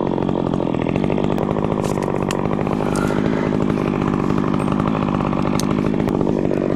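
Chainsaw engine running steadily without revving up, not cutting.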